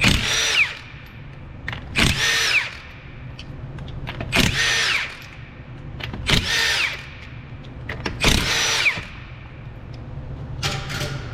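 Power impact wrench running in five short bursts about two seconds apart, each with a falling whine, spinning lug nuts off a wheel, then a weaker burst near the end.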